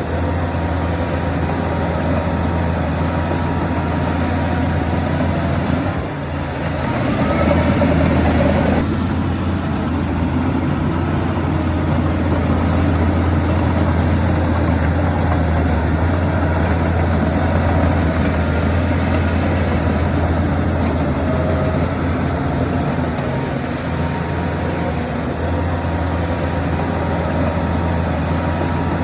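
Heavy construction machine's diesel engine running with a steady deep hum. About six seconds in it briefly drops, then swells with a rising whine that cuts off sharply about two seconds later before the steady running resumes.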